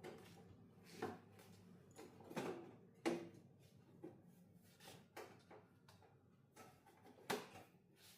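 Scattered light knocks and clicks of hard objects being handled and set down, irregularly spaced, about eight in all, the sharpest a little after three seconds and about seven seconds in.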